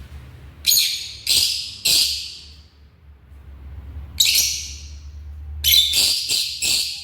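Lovebirds giving short, harsh, shrill calls: three in quick succession early on, a single one about four seconds in, then a run of four close together near the end.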